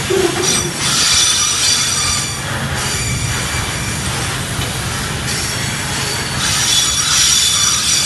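Flatcars of a rail-carrying track-maintenance freight train rolling past, wheels rumbling steadily on the track. High-pitched metallic wheel squealing comes in about half a second in, fades, and returns strongly for the last three seconds.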